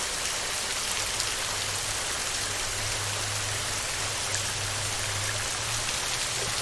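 Heavy rain on a tin roof: a steady dense hiss made of many fine drop ticks. A low hum sits underneath through most of it.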